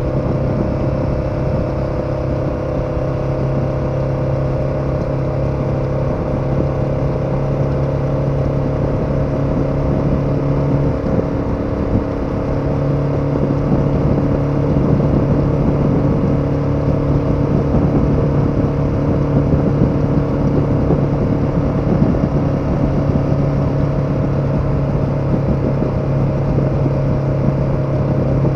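KTM 1290 Super Adventure's V-twin engine running steadily under way, with a short break in its note about halfway through, after which it runs a little louder.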